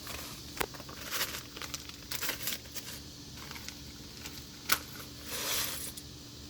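Plastic instant-noodle packets crinkling and tearing open in a run of short rustles, then a single sharp click and a brief hiss near the end. A faint steady hum runs underneath.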